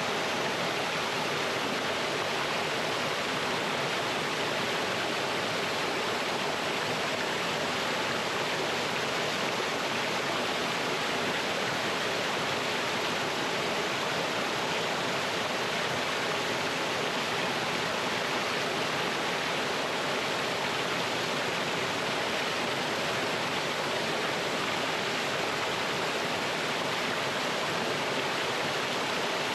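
Mountain stream pouring over rocks in a small waterfall: a steady, unbroken rush of water.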